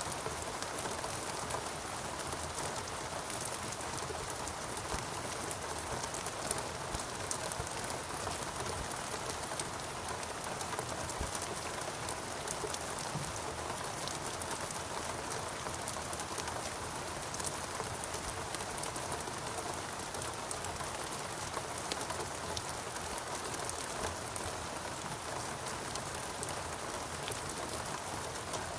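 Steady rain falling in a rainforest, a dense even hiss with many individual drops pattering on foliage and surfaces.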